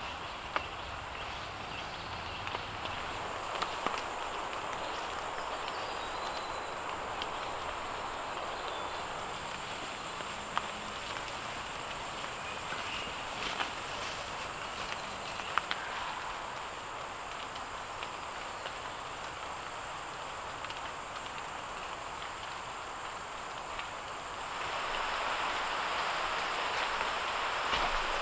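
Steady insect chorus: an even high-pitched drone over a soft hiss, with a few faint clicks, growing somewhat louder near the end.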